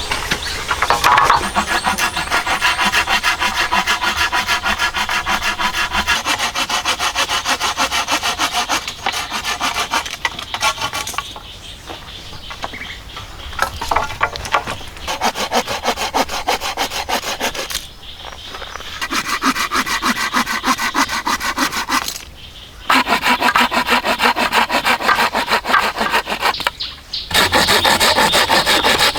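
Hand saw cutting through wood in long runs of quick, rough strokes, stopping briefly a few times.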